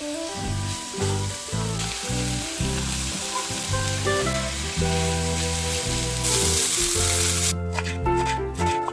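Diced onion sizzling as it fries in oil in a pan, with grated carrot and red pepper going in. The sizzle grows louder for a moment about two-thirds through, then stops near the end, giving way to quick knife taps chopping fresh herbs on a wooden board.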